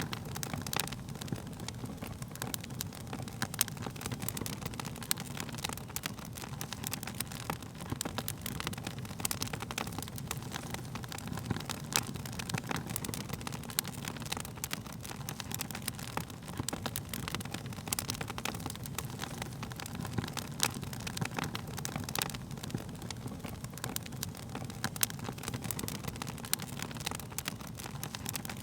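Wood fire burning: frequent, irregular sharp crackles and pops from the burning wood over a steady low rumble of the flames.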